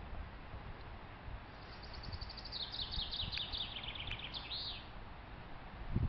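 A songbird singing one phrase of song, a fast run of notes falling in pitch and ending with a flourish, about two seconds in.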